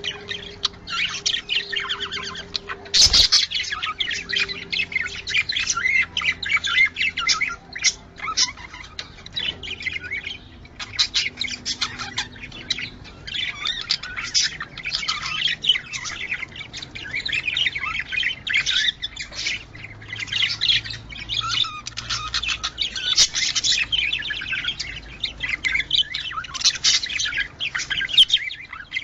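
Budgerigars chattering and warbling continuously in rapid, overlapping chirps, with a sharp click about three seconds in.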